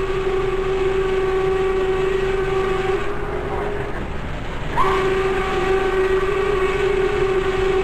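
Steam whistle of Norfolk & Western locomotive 1218 blowing two long blasts, each a chord that slides up in pitch at its start and then holds steady. The first ends about four seconds in, and the second starts about a second later and holds to the end, over the low rumble of the moving train.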